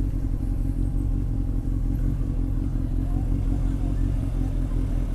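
Honda X4's inline-four engine running steadily on a moving motorcycle, its pitch holding even.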